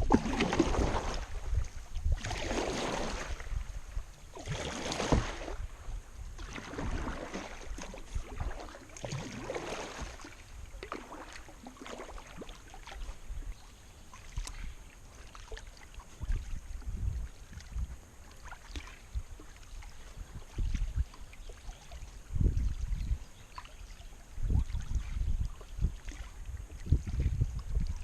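Kayak paddle strokes dipping and splashing in lake water, a swell about every two seconds for the first ten seconds or so, then softer water sounds with scattered low thumps.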